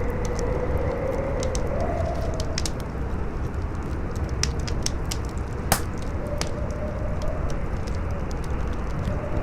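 Campfire crackling with scattered small pops and one louder snap a little past halfway, over a steady howling wind whose pitch wavers up and down.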